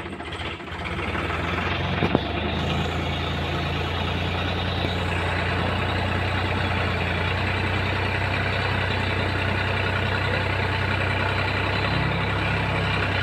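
Tractor engine running steadily, building up over the first second and then holding, with one sharp click about two seconds in.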